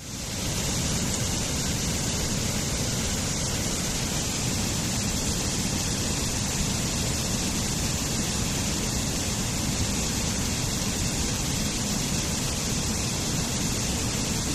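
Waterfall: a steady, even rush of falling water, coming back up from a brief dropout at the very start.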